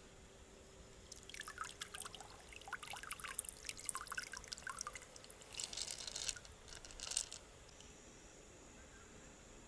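Water dripping and trickling with a run of small wet clicks for about six seconds, ending with two brief splashy bursts.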